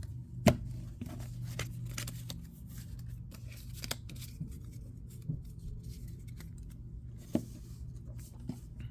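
Trading cards being handled: scattered light clicks and faint rustling of cards and packaging, the sharpest click about half a second in, over a low steady hum.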